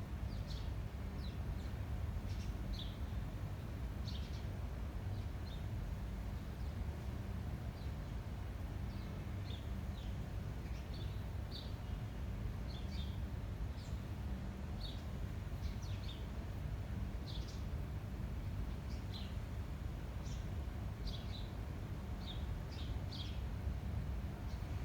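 Small birds chirping in short, high calls, scattered irregularly throughout, over a steady low rumble of wind on the microphone.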